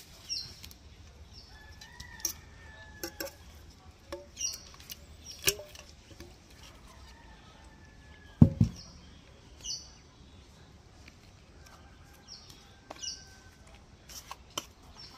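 Birds calling: repeated short, high, falling chirps and a couple of longer held calls that drop in pitch at the end. Scattered light knocks, and one low thud about eight and a half seconds in, the loudest sound.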